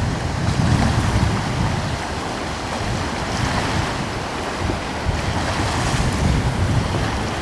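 Sea waves washing steadily, with coastal wind blowing and rumbling on the microphone in gusts, strongest about a second in and again near the end.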